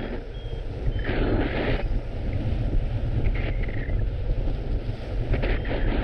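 Strong wind buffeting the microphone: a constant low rumble, with a louder gust of hiss about a second in. Faint short high beeps come and go underneath.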